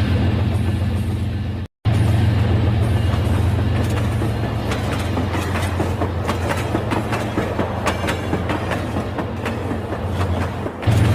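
Rail King battery-powered toy train running on its track: a steady motor hum with many small rattling clicks from the wheels. The sound drops out completely for a moment about two seconds in.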